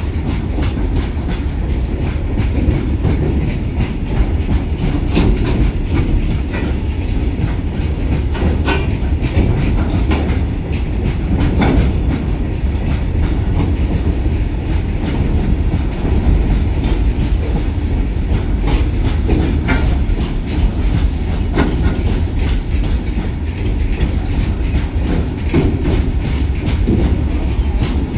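Open-top freight wagons of an Indian Railways goods train rolling past close by. Their steel wheels keep up a steady low rumble, with a constant clatter of clicks as they cross the rail joints.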